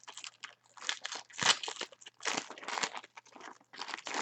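Plastic card packaging crinkling and rustling in irregular bursts as a 5x7 box topper card is handled.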